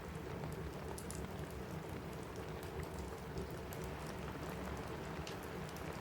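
Steady rain pattering on a cabin roof, mixed with a fireplace crackling: scattered small sharp pops over a constant low rush.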